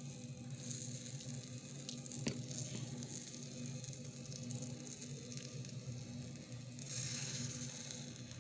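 Vegetables and tomato frying with a steady sizzle in a miniature steel wok, with a small metal spoon scraping and clicking against the pan as it stirs; one sharp click about two seconds in, and the sizzle swells briefly near the end.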